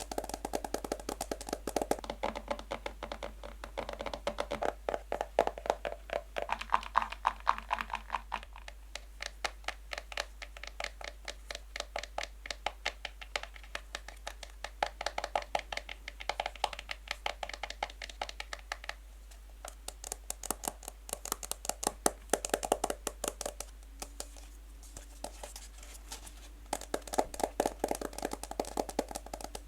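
Fast, light fingernail tapping on a box: a dense run of quick clicks that swells and eases in clusters.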